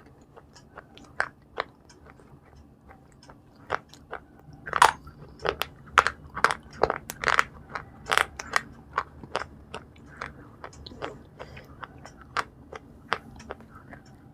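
Close-miked eating: a person biting and chewing crunchy food in a string of sharp, irregular crunches, thickest and loudest in the middle stretch.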